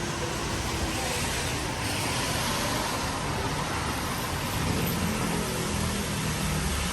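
Steady hiss of rain on a wet street, with a motor vehicle's engine running; its low hum gets stronger from about halfway through.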